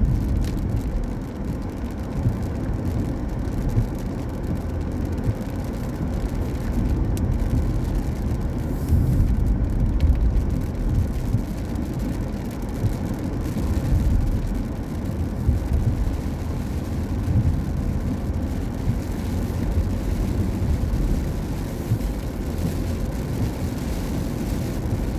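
Car driving on a rain-wet road: a steady low rumble of road and tyre noise.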